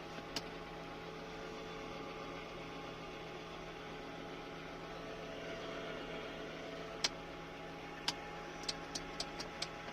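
1992 Lexus LS400's 1UZ-FE V8 idling steadily once warmed up to temperature, with a few light clicks near the end.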